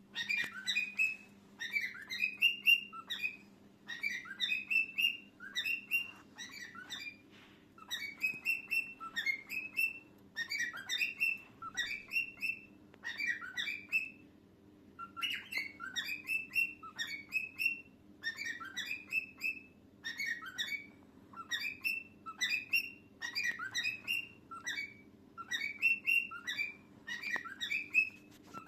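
Cockatiel singing: quick runs of chirpy whistled notes in short phrases, one after another with brief pauses, over a faint steady hum.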